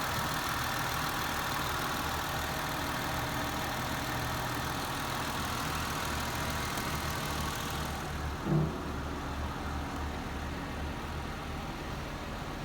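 2010 Mercury Milan engine idling steadily, with an even low pulsing note. About eight and a half seconds in, a brief, louder sound falls in pitch.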